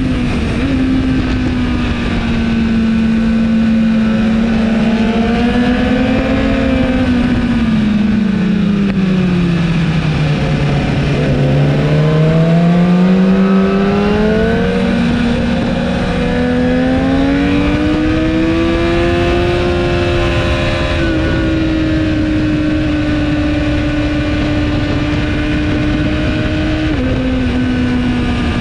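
2017 BMW S1000RR inline-four with an Akrapovic exhaust running under way, heard onboard with wind rush. Its pitch falls as the bike slows about a third of the way in, climbs again as it accelerates, and drops suddenly at a gear change near the end.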